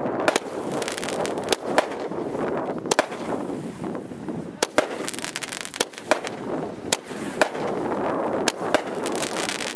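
Firecrackers going off: sharp bangs at irregular intervals, about one or two a second, over a continuous crackling hiss.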